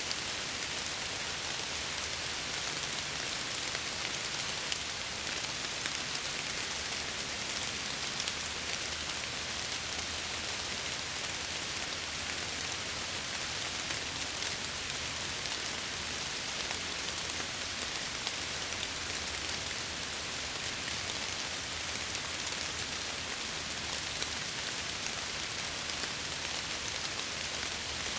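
Steady rain falling and pattering against window glass, an even hiss with faint scattered drop ticks.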